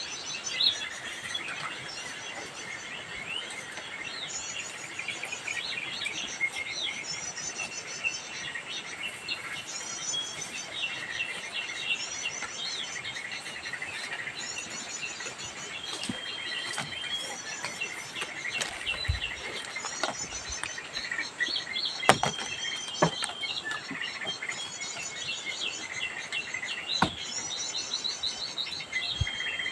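Wild birds chirping and calling, with an insect's pulsing high trill repeating about every second and a half, and a few sharp clicks, the loudest about two-thirds of the way through.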